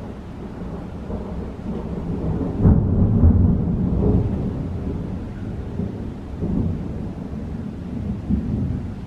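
Thunder rolling: a deep rumble builds to its loudest about three seconds in, then rolls on and slowly fades, swelling briefly twice more near the end.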